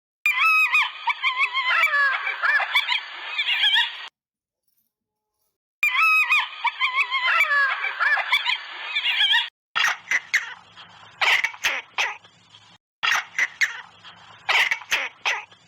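Recorded animal calls: a dense burst of chattering, wavering calls, a short silence, the same burst again, then a run of shorter, harsher honk-like calls.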